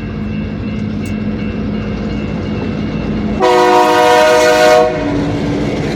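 Diesel locomotive idling with a steady rumble, then sounding its multi-chime air horn in one loud blast of about a second and a half, a little past halfway through.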